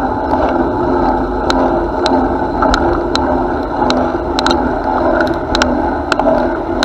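Steady rolling noise of a moving bicycle, with irregular sharp clicks and rattles scattered throughout.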